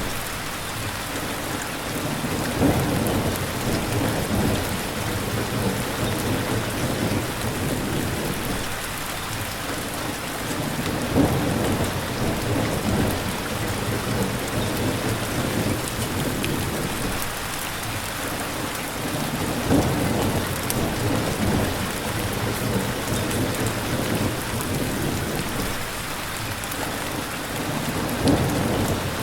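Steady heavy rain with an even hiss, and deep rumbles that swell and fade about every eight seconds.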